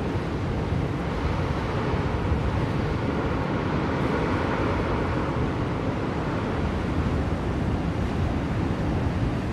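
Blizzard wind blowing in a steady, deep rush of noise with slow, gentle swells.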